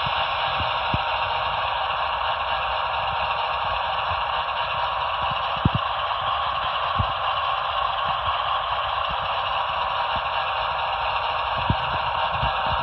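Broadway Limited Paragon 3 HO scale AC6000 model's onboard sound running a steady diesel engine sound through its small speaker, thin with no deep bass, with a few faint low knocks.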